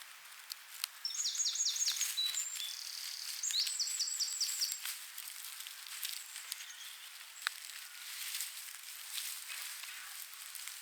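A songbird singing two short phrases of quick repeated high notes, one about a second in and one near the middle, over small crackles and rustles of dry straw being handled.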